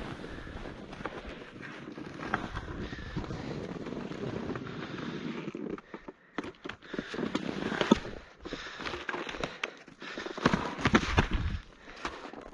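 Wind buffeting the microphone. From about six seconds in it gives way to a run of sharp knocks and clatters, some loud.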